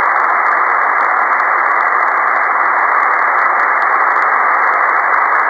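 Amateur HF receiver hissing with band noise on single sideband, no station transmitting. The hiss is steady and held within a narrow voice-width passband by the receiver's filter, with faint ticks of static.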